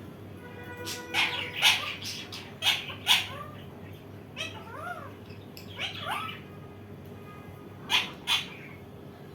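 Indian ringneck parakeet giving a string of short, sharp, screechy calls, some sliding up and down in pitch, about nine in all.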